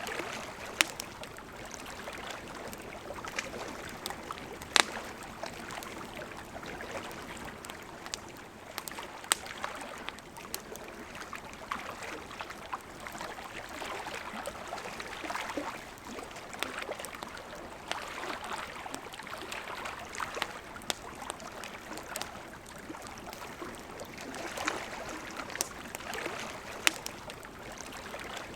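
A river running steadily, with sharp crackles and pops from a wood campfire scattered through it. The loudest pops come about a second in, around five and nine seconds, and near the end.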